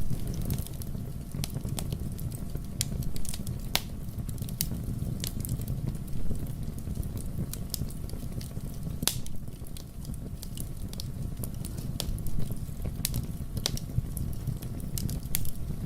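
Wood fire burning in a fireplace: a steady low rumble of the flames with irregular sharp crackles and pops, a few a second, some louder snaps scattered through.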